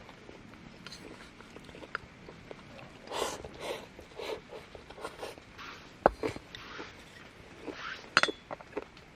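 Scattered handling noises: rustling, light clinks and sharp knocks of objects being moved, with the loudest knock about six seconds in and a quick run of clicks near the end.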